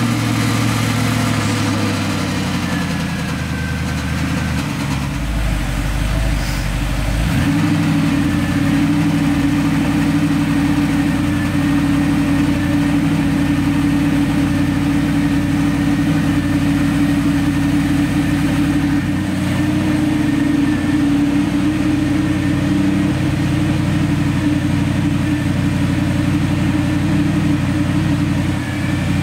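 Audi R8's 4.2-litre FSI V8 idling fast just after a cold start. Its note changes about seven seconds in, then holds steady.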